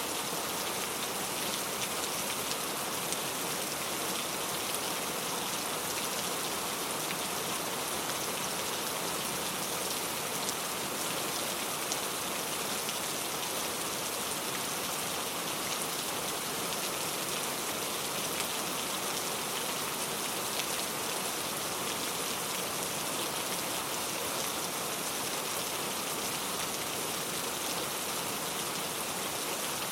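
Steady rain falling, an even, unbroken hiss with faint scattered drop patter.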